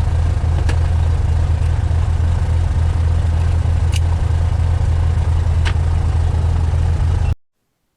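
Cessna Skylane's single piston engine running steadily at low power, heard inside the cockpit as a loud, even low drone, with a few faint clicks; it cuts off abruptly near the end.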